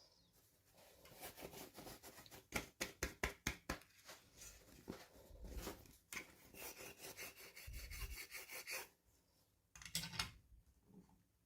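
Hands handling and opening toy packaging: quick runs of crackling clicks with a stretch of rubbing, a short pause, then a few more clicks.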